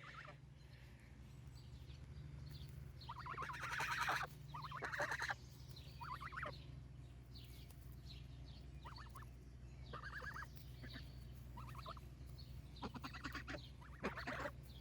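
A young goose giving shrill calls, its voice not yet a full honk: about eight short bursts spread out, over a steady low hum.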